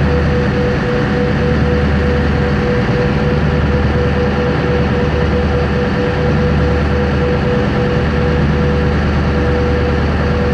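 A large engine running steadily: a low, even drone with a constant whine above it.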